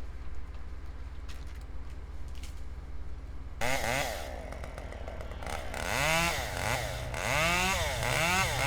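Chainsaw engine over a steady low engine hum. About a third of the way in, the saw comes up loudly and its pitch rises and falls again and again, as it would when revved or bogging in a cut.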